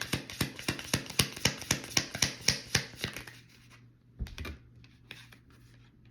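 A tarot card deck being shuffled by hand: a quick run of card slaps for about three seconds, then a few scattered taps.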